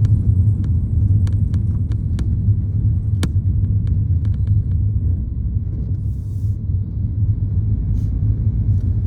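A steady low rumble, with a few faint clicks in the first half and one sharper click about three seconds in.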